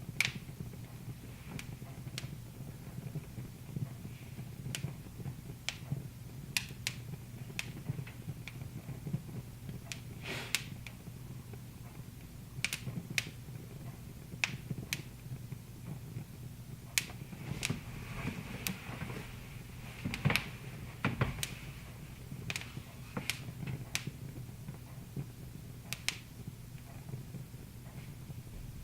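Wood fire crackling in a fireplace: irregular sharp pops and snaps, a few every couple of seconds, over a low steady hum.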